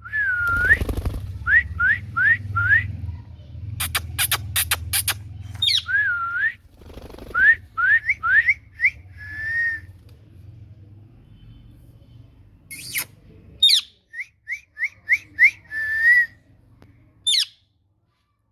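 Ringneck parrot (rose-ringed parakeet) whistling a learned tune three times: a dipping, rising note, then a run of quick upward whistles ending on a held note, broken by a few sharp, shrill shrieks.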